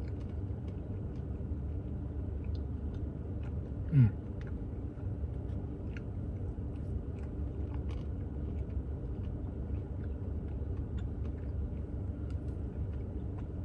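A person eating a Blizzard with soft small clicks of spoon and chewing over a steady low rumble, with a short falling 'mm' about four seconds in.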